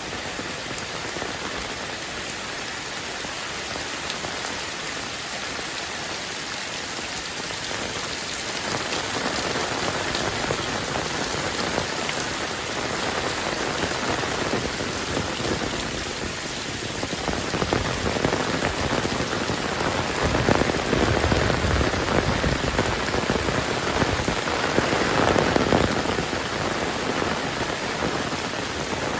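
Heavy rain pouring steadily, swelling louder in the second half.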